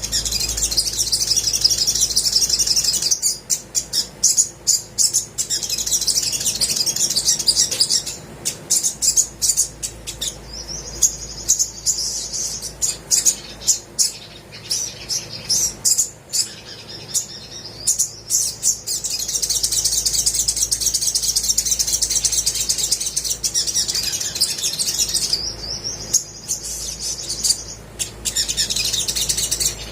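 Olive-backed sunbird singing hard, a fast, high-pitched twittering warble broken by runs of sharp quick ticking notes, in long bursts with short pauses.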